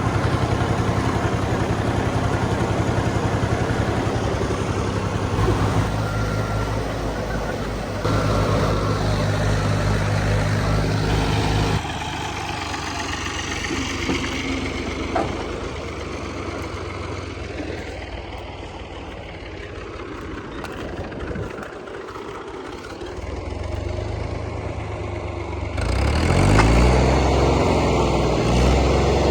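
Farm machinery engines running in a string of clips that change abruptly every few seconds. Near the end an engine speeds up, its pitch rising.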